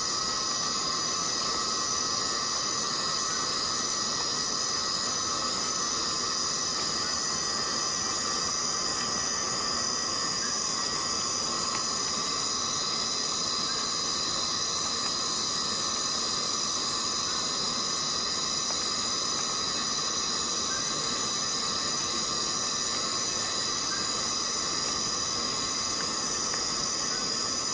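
Tropical rainforest ambience: rain falling steadily under a continuous chorus of insects, whose buzzing holds at several steady high pitches throughout.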